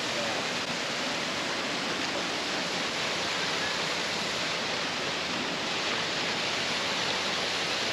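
Steady rush of a waterfall and the shallow creek below it.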